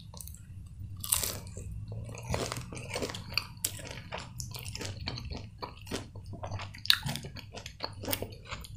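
A person biting into and chewing crispy breaded fried food, likely a chicken nugget, with irregular crunches throughout.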